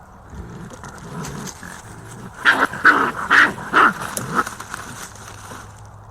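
A quick series of about five short, loud animal calls, each with a clear pitch, bunched together over about two seconds midway through, over a faint steady low hum.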